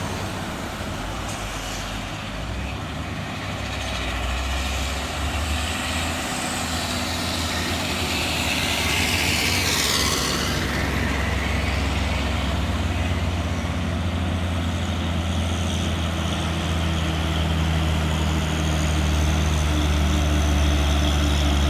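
Diesel engines of loaded trailer trucks pulling uphill, a steady low rumble that grows louder as they come closer. A hissing rush of air sweeps through about ten seconds in.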